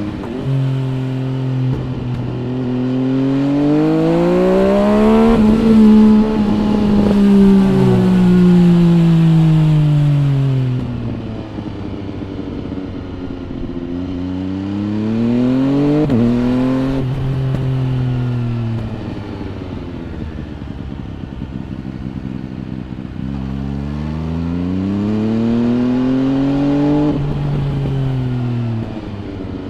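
MV Agusta Brutale 800 RR's three-cylinder engine through an MV Agusta Corse exhaust, heard from the bike itself as it accelerates and slows through the bends. The revs climb to a peak about five seconds in and wind down over several seconds, climb again with a quick shift about sixteen seconds in, and rise and fall once more near the end.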